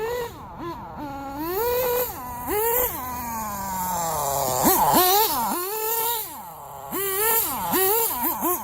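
An RC10GT nitro truck's SH18 nitro engine, running on 5% nitro fuel, gives a high-pitched whine that rises and falls again and again as the throttle is opened and released. There is one long falling glide midway and several quick short blips near the end.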